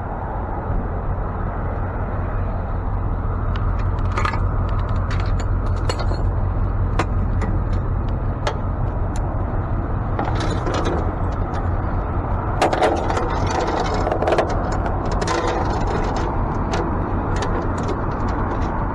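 Tow truck running with a steady low rumble, with light metallic jangling and clicking, like keys and loose metal, scattered over it and busiest in the middle.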